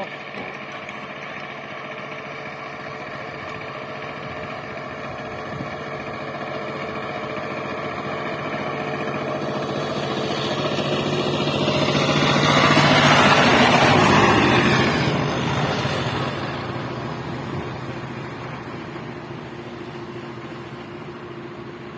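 Power tiller engine running steadily as the machine drives past, growing louder to its closest point about two-thirds of the way through, then fading away.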